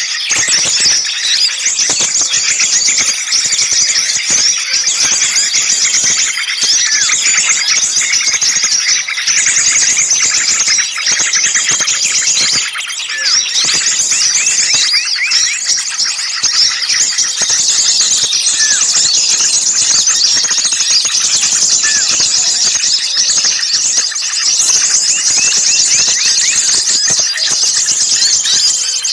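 A dense, loud chorus of many small songbirds calling at once: overlapping high-pitched chirps, squeaks and trills with no pause. It is the noisy, agitated chatter of mixed small birds ('burcil ribut') used as a bird lure.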